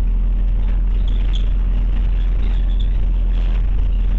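Scania OmniCity bus engine running steadily, heard from inside the passenger cabin, with faint light rattles over the drone.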